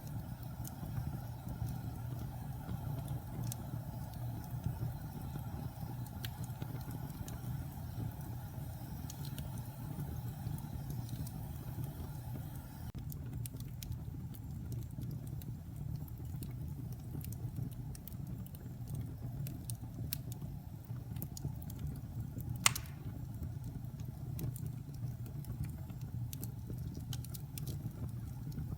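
Wood fire burning in a fireplace: a steady low rumble of the flames with scattered small crackles of the burning wood, and one loud pop about two-thirds of the way through.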